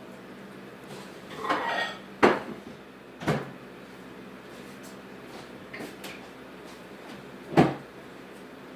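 Dishes and food containers handled on a table: a short scrape or rustle, then three sharp knocks of things set down, with a few light clicks between.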